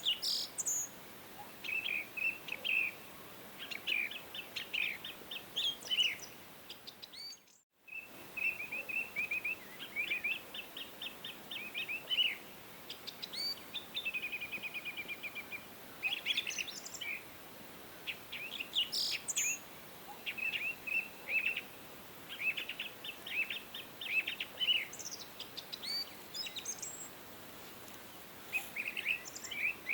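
Songbirds singing and calling: short high chirps, quick trills and rapid runs of repeated notes from several birds, over a faint steady background hiss. The sound briefly dips to near silence a little under eight seconds in, then resumes.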